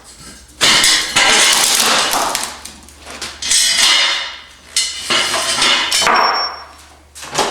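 Loud clattering and scraping of wood and metal in about four bursts, as the tractor is forced over boards while being moved out of the paint booth; a board cracks under it.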